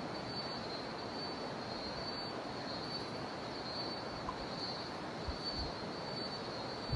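Jungle river water rushing steadily, with cicadas droning in a steady high band that swells and eases slightly. A few soft low bumps come about five seconds in.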